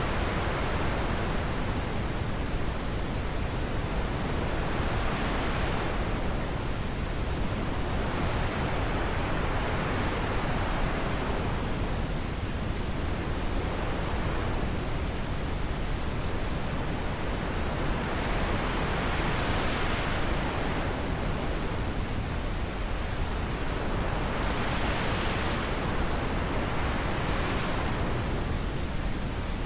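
Steady wind noise, swelling and easing in soft gusts every few seconds.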